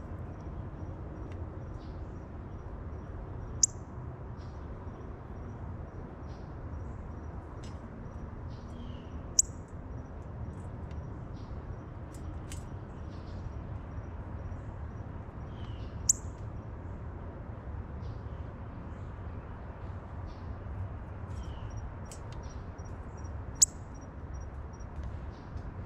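Songbirds calling: a sharp, high chip repeats four times, about every six to seven seconds, each near a softer falling note, over a faint high ticking trill and a steady low rumble.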